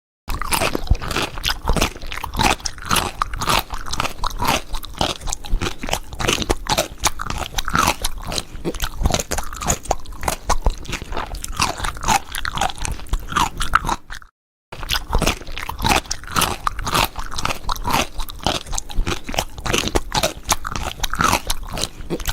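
Close-miked chewing and crunching of food, a dense run of crisp bites and crackles, broken by a moment of silence about two-thirds of the way through.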